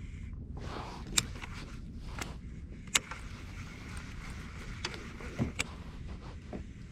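Scattered sharp clicks and knocks of gear being handled on a fishing kayak, about five of them, the loudest about a second in and about three seconds in, over a low steady rumble.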